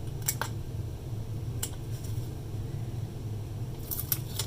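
A few light clicks and rustles of hands handling double-sided tape and peeling off its backing paper, over a steady low hum.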